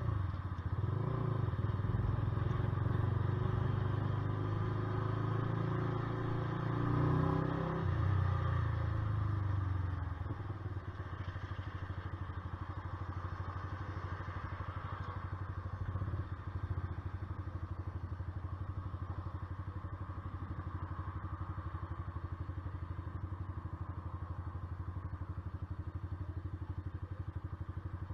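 Honda CBR125R's single-cylinder four-stroke engine running with small changes in pitch, then dropping about ten seconds in to a steady idle.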